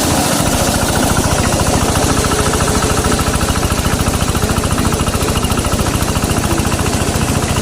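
Large corn sheller running, driven by a Yanmar 8.5 hp single-cylinder diesel engine: a steady, fast, even pulse of engine firing with machine noise over it.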